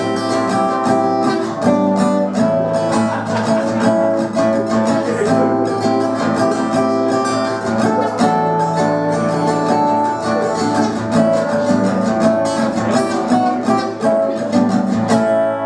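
Acoustic guitar strummed steadily through an instrumental passage of a song, with no singing.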